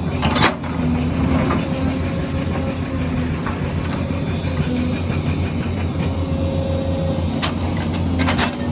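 Excavator's diesel engine running steadily, with a sharp knock about half a second in and two more near the end.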